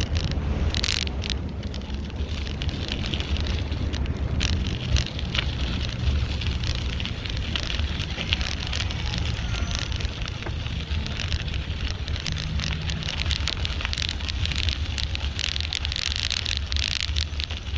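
Riding a bicycle: a steady low wind rumble on the microphone with a dense, continuous crackle of small clicks.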